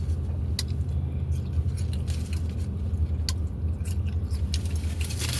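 Close-miked chewing of a taco, with a few sharp crunches, over a steady low hum.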